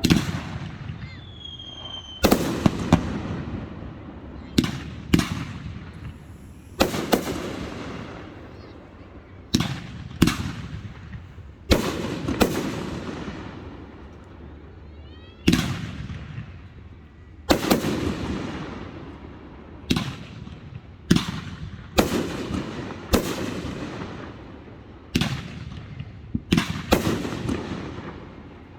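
Aerial fireworks display: about twenty shells bursting one after another at irregular intervals, each a sharp boom followed by a long rumbling echo. A brief high whistle comes about a second in.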